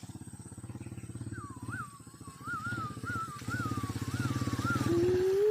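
A small motorcycle engine running with a fast, even pulse. A high wavering whine rides over it from about a second in. Near the end a dog starts a long, slowly rising howl.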